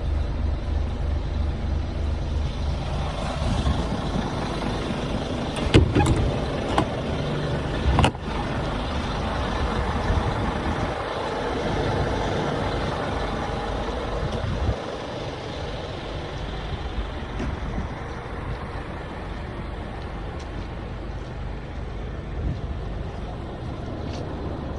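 Scania diesel engine running with a steady low pulse. Two sharp knocks come about six and eight seconds in, and the engine sound drops to a quieter level about halfway through.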